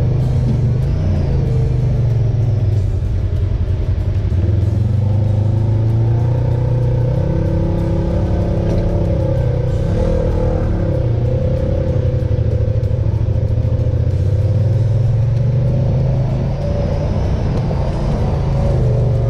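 Honda Pioneer 1000 side-by-side's parallel-twin engine running steadily under way on a trail, its drone rising and falling a little in pitch.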